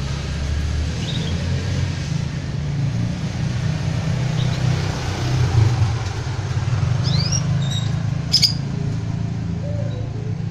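A steady low rumble, with a few short, high, upward-gliding chirps from a canary scattered through it. A sharp click comes near the end.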